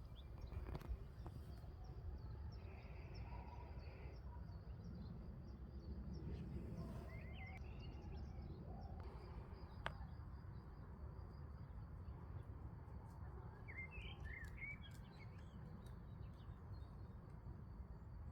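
Wild birds chirping now and then, in short scattered calls with a cluster about halfway through and another near the end, over a steady low rumble of outdoor background noise and a faint high steady tone.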